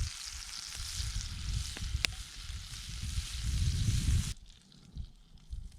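Butter sizzling as food fries in a pan: a steady, dense sizzle that stops abruptly about four seconds in.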